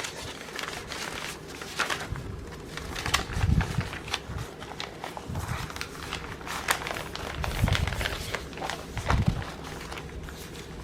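Handling noise from cross-stitch kit packets being sorted by hand: scattered light crackles and clicks of packaging, with a few soft low thumps.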